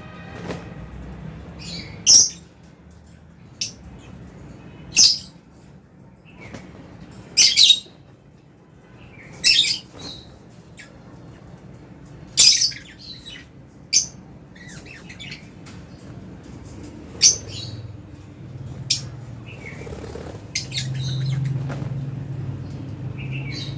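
Lovebirds in an aviary giving sharp, shrill chirps and squawks, one every two or three seconds, over a low steady hum that grows louder near the end.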